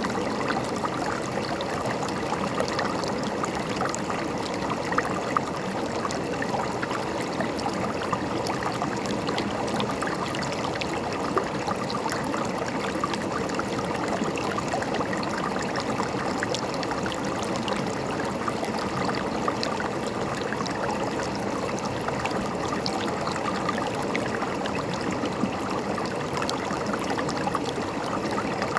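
River water running steadily over rocks, a continuous rushing with fine splashing and gurgling.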